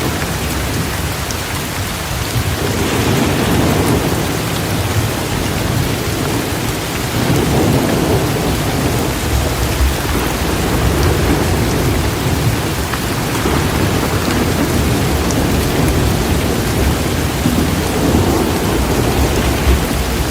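Heavy, steady rain pouring down, with low thunder rumbling in long swells that come and go.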